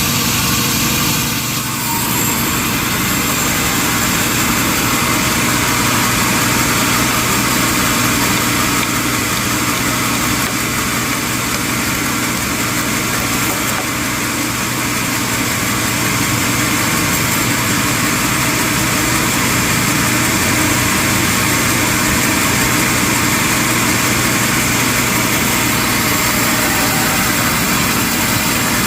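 Sawmill machinery running steadily: a loud, unbroken mechanical noise with a constant hum under it.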